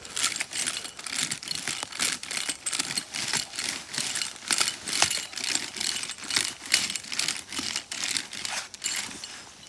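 Dry leaves and forest soil being scratched and rustled while the ground is roughed up for sowing ginseng seeds: irregular crunching scrapes, several a second.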